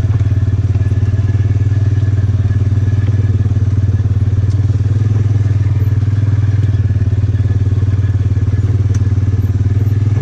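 Polaris off-road vehicle's engine running steadily, a constant low drone with no change in speed.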